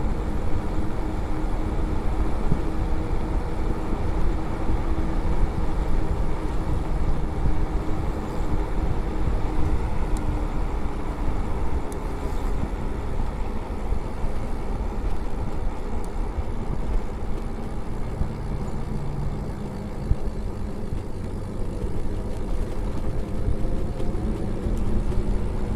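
Riding noise from an electric bike on the move: a steady rush of wind and tyre rumble, with faint steady tones and a faint whine that rises near the end.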